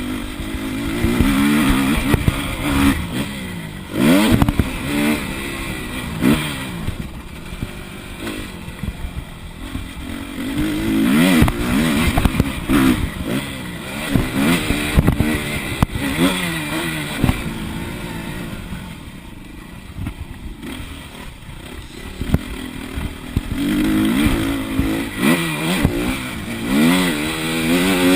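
Motocross bike engine revving hard and backing off again and again, its pitch climbing and dropping with each burst of throttle and gear change, with a few sharp knocks along the way.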